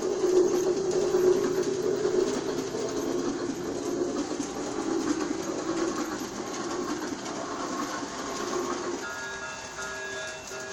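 G-scale toy steam train running on its track with a steady rattle. Near the end its sound unit gives a whistle in a few short broken toots.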